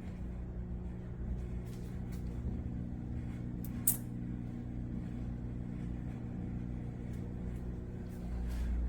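Steady electric hum of a running countertop air fry oven's fan, with one sharp click about four seconds in.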